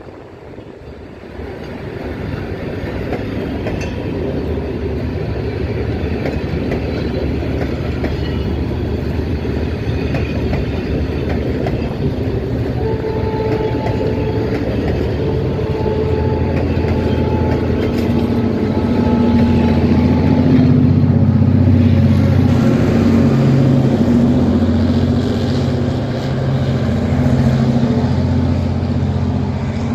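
Diesel-hauled passenger train passing close along the track: coach wheels rolling on the rails, with the locomotive's diesel engine running, building from about two seconds in and loudest in the second half.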